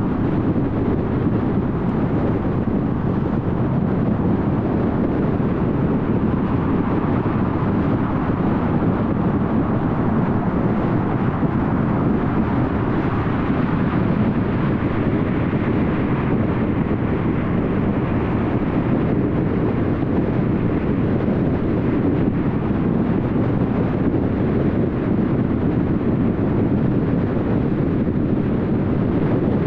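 Steady road noise of a car at highway speed: tyre roar and wind, with a slight swell in the upper hiss midway.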